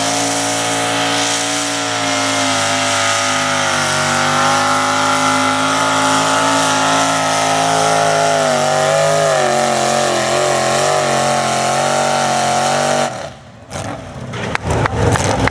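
1967 Chevrolet pickup's engine at high revs under load, pulling a sled in a super stock truck pull, its pitch wavering as the truck works down the track. The sound drops away abruptly near the end, followed by a run of sharp clicks and knocks.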